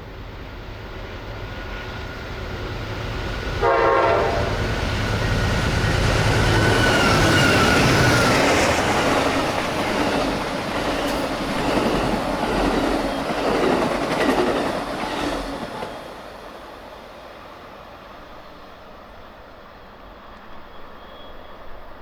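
Metra and Amtrak passenger trains passing at speed on the main line. The rumble builds, a locomotive horn gives one short blast about four seconds in, then the wheels clatter over the rail joints until the sound falls away about sixteen seconds in.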